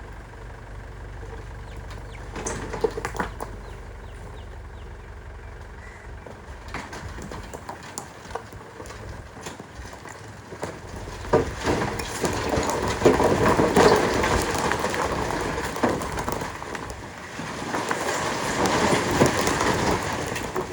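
A JCB 3DX backhoe loader's diesel engine running under a steady low hum, with loud rattling and clattering of rock being loaded into a tractor trolley. There are sharp knocks early, and the clatter is loudest about midway and again near the end.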